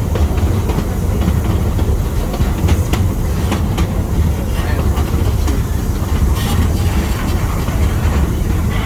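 Zoo train running, heard from aboard: a steady low rumble, with a few sharp clicks of the wheels about three seconds in and a short hiss a little after six seconds.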